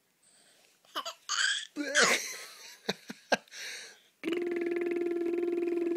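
A baby's short breathy squeals, giggles and hiccup-like catches, several in quick succession. About four seconds in, a long steady buzzing hum with a fast flutter takes over.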